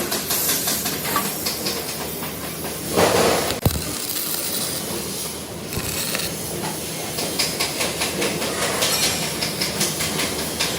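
Steady hissing noise of workshop machinery, with a louder rush about three seconds in and a sharp click just after.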